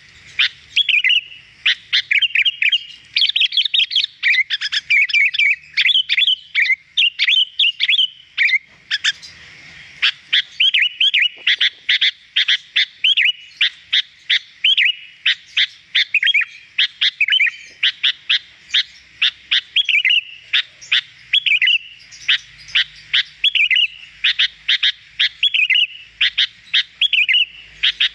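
Sooty-headed bulbul (kutilang) singing continuously: a rapid, unbroken run of short, clear chirps and slurred whistled notes, several each second.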